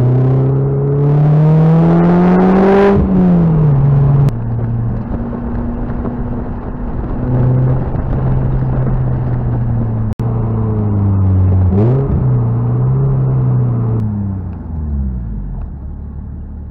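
Lotus Elise 220's supercharged four-cylinder engine driving through the gears, heard from the open cockpit. The revs climb over the first three seconds and drop sharply at a gear change, run steady, climb again with another drop about twelve seconds in, then fall away as the car slows near the end.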